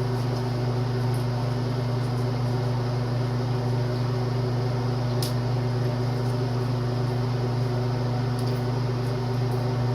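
Steady electric hum from a motor or appliance, even and unchanging throughout, with a faint click about five seconds in.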